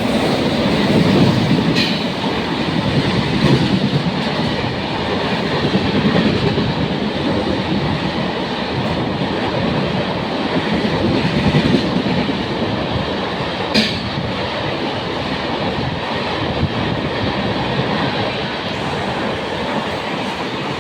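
A fast train passes through the station without stopping: a loud, steady rumble of wheels on rail with clickety-clack over the rail joints. Two sharp clicks stand out, one about two seconds in and one near fourteen seconds.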